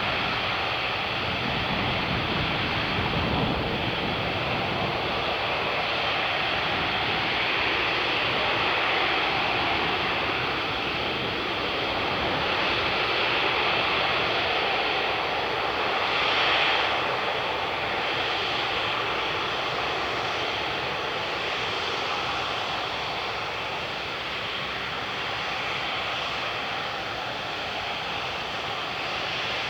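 Airbus A380 jet engines running steadily, a broad rushing roar that swells briefly a little past halfway and eases slightly toward the end.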